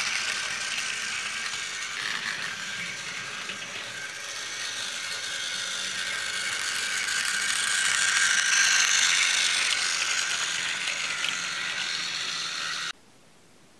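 Tomy Douglas battery toy train engine running on plastic track, its small AA-powered motor and gears whirring with a fast ratcheting clatter. It grows louder and softer as it circles the layout, and cuts off abruptly about a second before the end.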